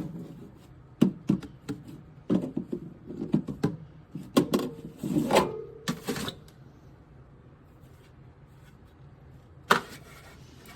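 Clicks and knocks of small items being handled, a quick irregular run over the first six seconds, then quiet, then a single knock near the end.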